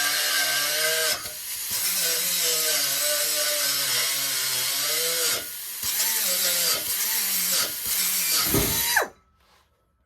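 Power cutting tool slicing through a truck's steel exhaust pipe, the motor's pitch wavering as it loads up, with two brief let-ups. About nine seconds in it is released and winds down to a stop.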